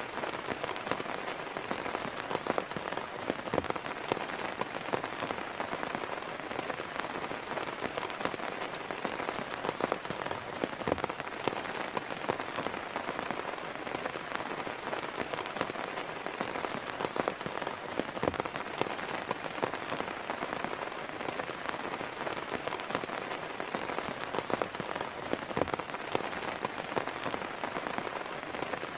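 Steady heavy rain falling, with a dense patter of close individual drops striking a surface.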